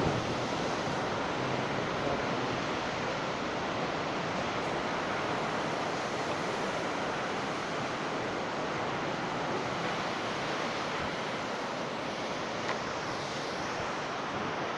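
Heavy rain and strong wind of a sudden storm, a steady even rush with no let-up.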